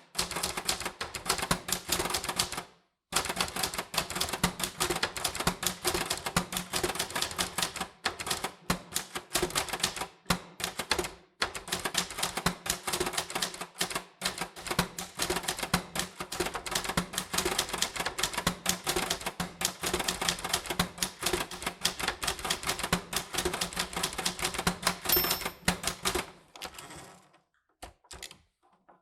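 Typewriter keys clacking in quick runs, broken by short pauses, with a brief high ring near the end.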